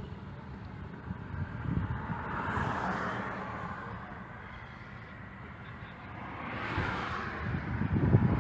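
Two vehicles passing by, each a swell of road and engine noise that rises and fades away, the first about three seconds in and the second near the end, over a low rumble.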